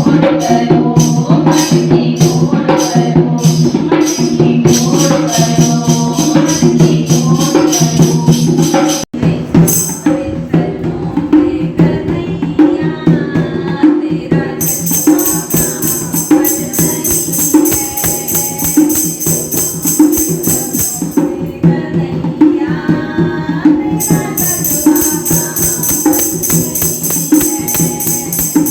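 Devotional Krishna bhajan: a woman's voice singing a melody over a steady drone, with jingling hand percussion keeping an even beat. The sound cuts out for an instant about nine seconds in, then the song carries on.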